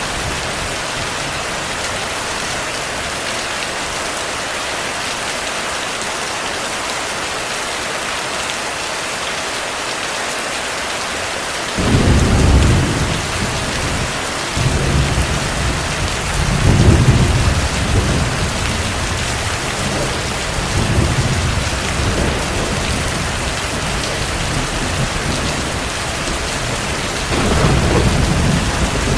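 Steady heavy rain falling, with distant thunder rolling in from about twelve seconds in and rumbling in several swells.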